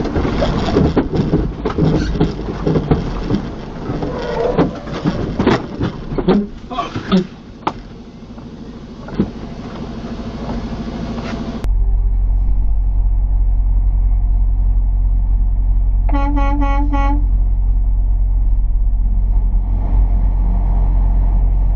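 Steady low engine and road rumble inside a moving vehicle, with a vehicle horn honking a quick string of short toots about sixteen seconds in. Before a sudden cut about halfway through, a busier, noisier mix with scattered knocks.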